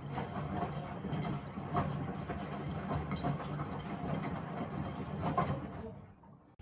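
Miele W Classic front-loading washing machine in its wash phase: the motor hums as the drum turns and the laundry tumbles with soft knocks. The drum slows and stops near the end, the pause before it reverses.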